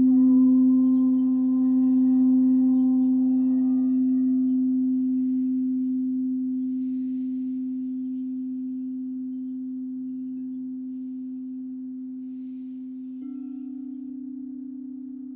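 A singing bowl ringing on one steady low tone that slowly fades. Its higher overtones die away in the first few seconds, and the tone swells slightly again near the end.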